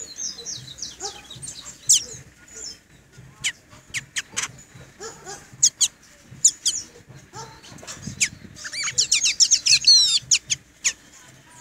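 Caged pet bird singing: a series of sharp, high, falling whistles and chirps, building to a fast trill about nine to ten seconds in.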